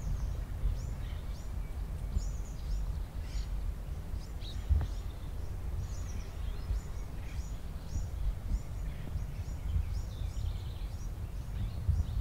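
Many short, high, downward chirps of small birds calling on and off, over a steady low rumble of wind on the microphone.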